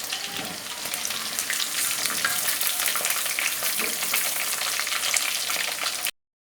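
Marinated chicken pieces deep-frying in hot oil in a wok, a steady crackling sizzle with small clicks and scrapes of the ladle lifting the pieces out. The sound stops abruptly about six seconds in.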